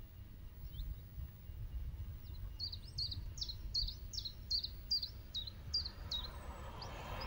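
A small songbird singing: scattered single high chirps, then through the middle a quick run of about ten repeated high notes at roughly three a second, over a low steady background rumble.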